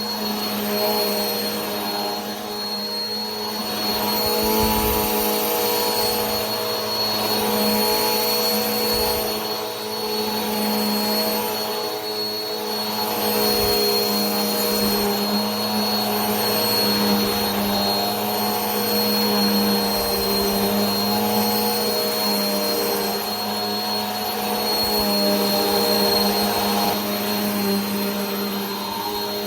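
Vacuum cleaner running steadily: a constant motor hum with a thin high whine over a rush of air. The loudness swells and eases gently every few seconds.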